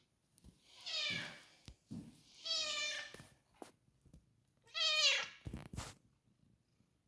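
Domestic cat meowing three times, each call about half a second long, roughly two seconds apart.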